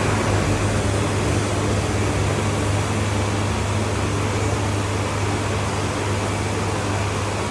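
CNC milling machine running steadily while machining a die-casting mold: a constant low hum under an even rush of machine noise.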